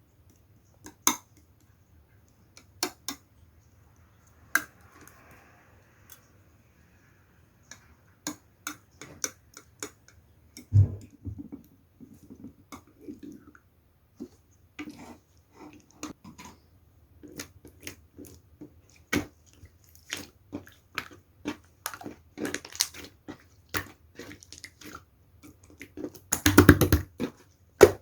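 Slime being pressed and stretched by hand, making sharp clicks and wet pops. They come one at a time at first, grow denser after about eight seconds, with a heavier thump near the middle and a thick cluster of pops near the end.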